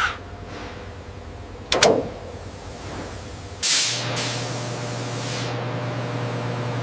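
A sharp knock about two seconds in, then a burst of hissing that fades over a couple of seconds, over a steady low hum that begins with it.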